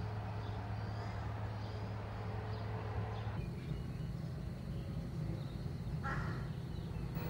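Outdoor ambience: birds calling over a steady low hum, with a louder call about six seconds in.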